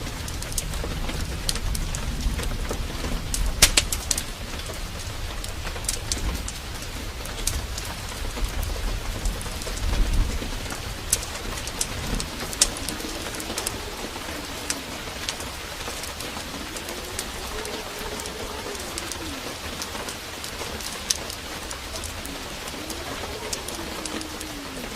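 Heavy rain falling steadily, with scattered sharp ticks and a low thunder rumble that fades out about ten seconds in. In the second half a low bird call that rises and falls is repeated about three times.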